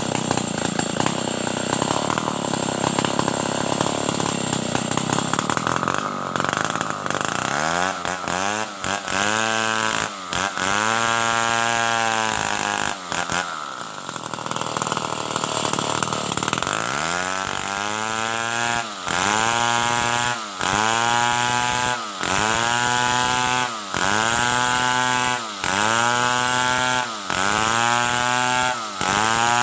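Stihl 070 two-stroke chainsaw running hard at first, then revving up and falling back again and again, about once every second and a half, as it works through timber.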